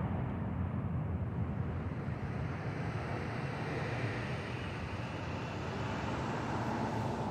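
Jet airliner engine noise dying away after a pass, leaving a steady low rumble.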